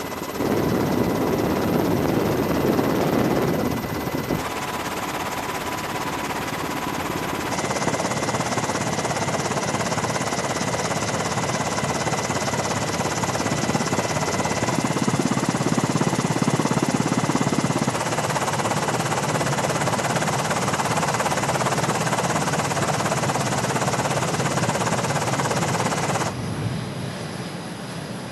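Steady aircraft engine noise, in several clips spliced together, the sound changing abruptly at each cut.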